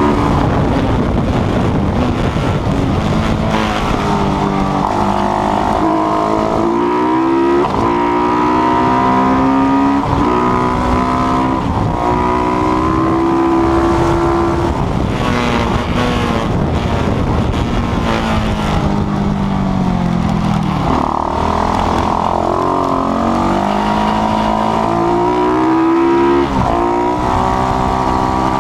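Single-cylinder race motorcycle engine, built on a KTM 690 unit, running hard under racing load. It revs up through the gears in rising steps, then the pitch drops away under braking and downshifts, several times over, with a constant rush of wind noise.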